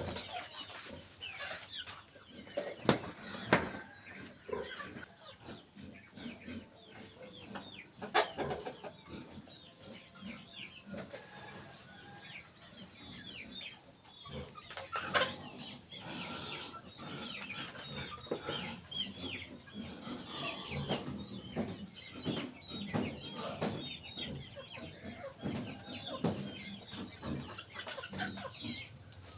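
Chickens clucking, with many short high calls throughout, and a few sharp knocks about 3, 8 and 15 seconds in.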